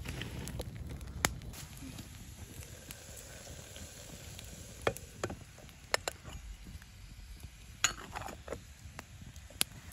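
Wood fire crackling, with a few sharp pops spread through it over a low steady rumble.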